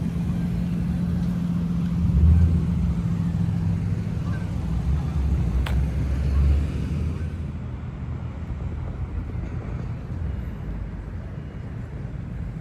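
Car engines running in a parking lot: a steady low rumble that swells louder twice, about two seconds in and again around five to six seconds in, as cars move nearby. A single sharp click sounds near the middle.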